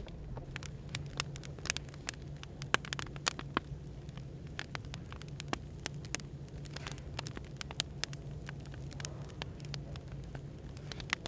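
Burning firewood crackling, with irregular sharp pops and snaps, over a steady low hum of café background noise.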